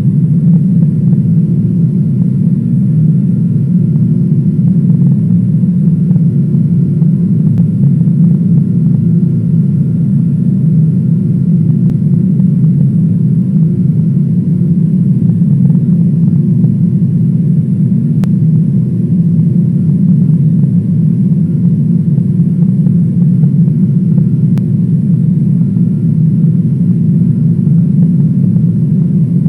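Steady engine and airflow noise heard from inside an airliner cabin, a loud, even low rumble with a thin steady whine above it.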